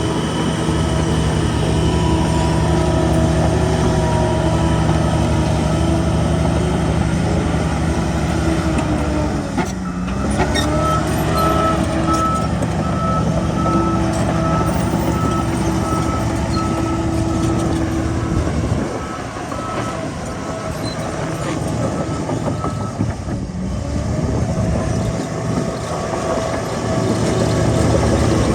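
Diesel engine of heavy earthmoving machinery running under load, its revs dipping briefly and climbing back about a third of the way in. A reversing alarm then beeps steadily for about twelve seconds through the middle.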